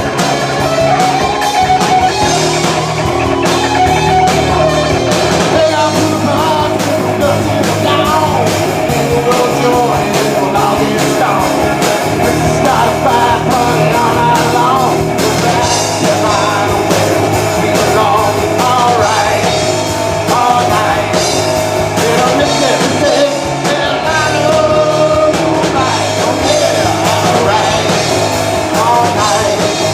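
Live rock band playing with electric guitar, drum kit and a singer.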